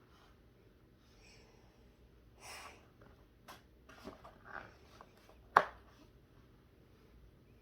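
Quiet tabletop handling of brush pens: a sniff, a few light clicks and taps, then one sharp click about five and a half seconds in.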